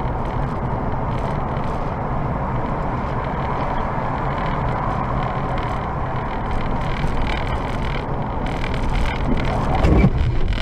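A car driving, with steady engine and road noise and a louder surge near the end.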